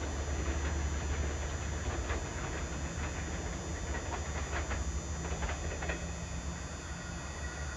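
Long Island Rail Road diesel train running on the rails, with a steady low rumble and a series of wheel clicks over rail joints in the middle.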